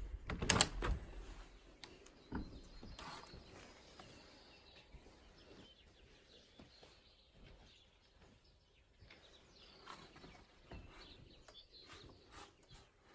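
A short cluster of loud knocks about half a second in, then faint birds chirping on and off.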